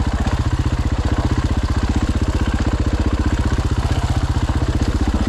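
Dirt bike's single-cylinder four-stroke engine, a Husqvarna FE 501, idling steadily with an even, rapid pulse.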